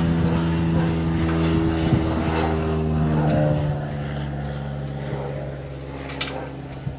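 A steady motor hum, an engine-like drone with a fixed pitch, that drops in level about halfway through, with a few sharp clicks and taps over it.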